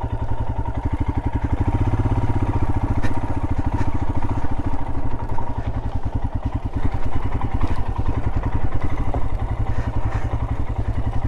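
Royal Enfield Himalayan's single-cylinder engine running steadily at low revs, its firing pulses even, with a few light clicks over it.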